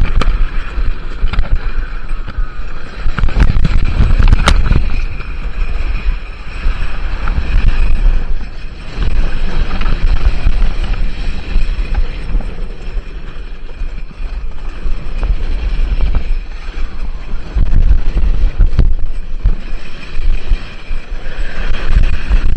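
Heavy wind buffeting the microphone over a low rumble, swelling and easing in waves, with a few sharp clicks about four seconds in.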